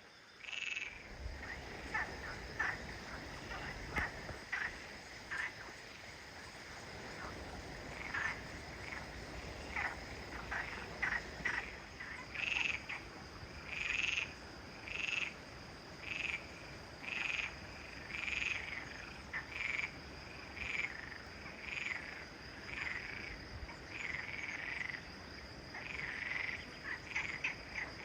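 Frogs croaking in a repeated series, sparse at first and then about one call a second from the middle on, over a steady high insect drone.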